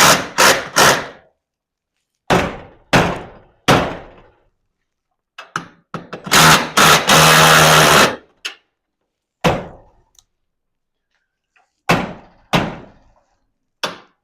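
Hammer blows on the metal garage door track and flag bracket to straighten a bend, about ten sharp strikes in irregular groups, each ringing briefly. About six seconds in, a harsher continuous noise lasts about a second and a half.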